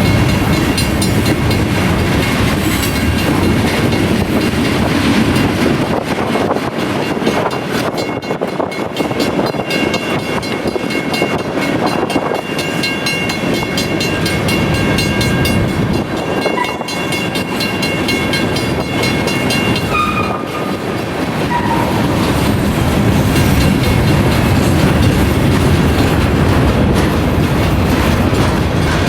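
Freight cars of a BNSF manifest train rolling over the grade crossing, wheels clacking over the rail joints, with the crossing's mechanical bell ringing. Brief wheel squeals come about two-thirds of the way in.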